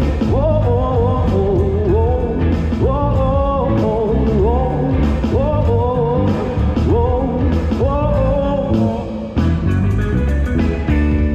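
Live band playing a blues-rock song: drums, bass and electric guitar, with a lead melody that keeps sliding up and down in pitch. Right at the end it settles onto a held chord.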